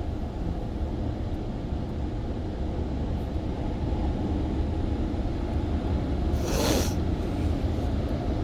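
WashWorld Razor car wash dryer blowers running at a steady low rumble, heard from inside the car, with one short hiss about six and a half seconds in.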